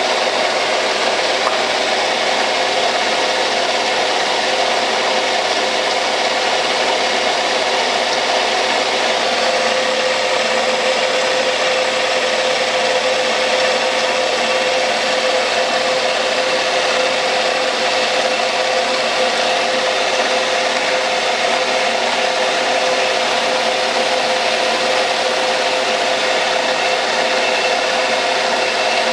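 Metal lathe taking a steady three-tenths-of-a-millimetre cut on a taper: a continuous hiss of the tool cutting metal over the machine's running hum, with a steady whine.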